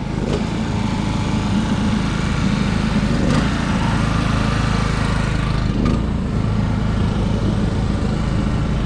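An engine running steadily at an even speed, with no cranking or change in pitch.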